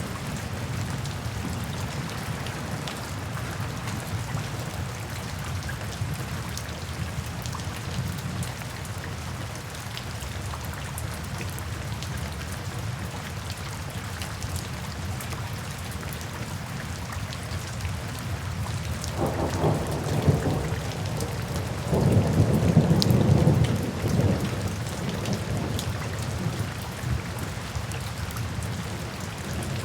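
Steady rain falling, with a roll of thunder rumbling for several seconds about two-thirds of the way through.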